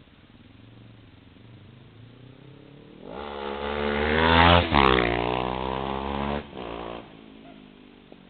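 Honda CB500 parallel-twin motorcycle with an open DAM stainless exhaust, no dB-killer fitted: the engine rises in pitch and loudness for about a second and a half, peaks about halfway through, then falls in pitch and drops away sharply, leaving only a faint low sound.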